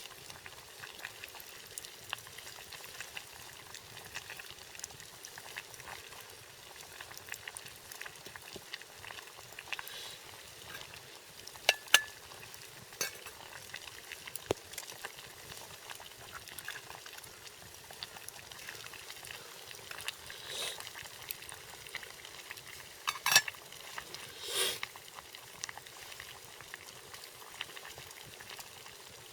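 Water heating in a pot over a campfire for instant ramen: a steady bubbling hiss with many small crackles, and a few sharper clicks about 12 and 23 seconds in.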